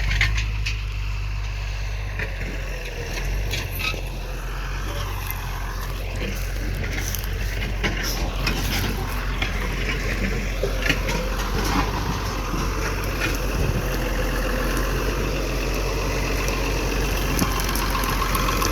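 Farm tractor engine running steadily while plowing, with scattered short knocks over the low hum.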